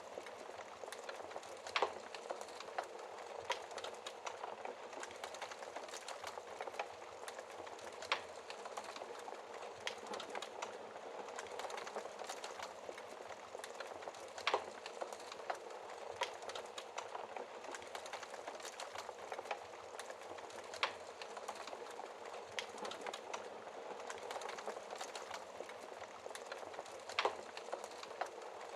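Wood fire crackling in a fireplace: a steady hiss full of small snaps, with a sharper pop about every six seconds.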